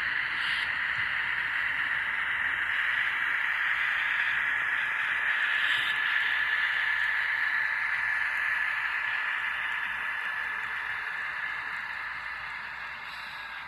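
N scale model freight train running on the track: a steady whirring hiss of the locomotive's small motor and the wheels, with a thin whine. It grows louder to about the middle and fades toward the end as the train moves away.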